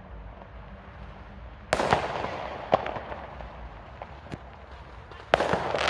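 Fireworks exploding. A loud bang with a crackling tail comes about two seconds in, then a couple of sharp single pops, then another big bang with crackle near the end.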